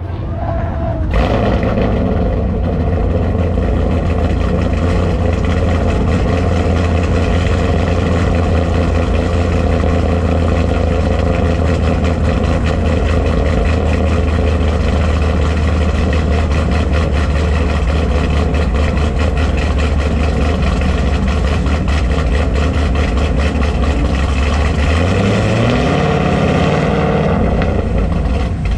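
Car engine running steadily close by with a low, even, pulsing rumble; about 25 seconds in its pitch steps up as it takes more throttle.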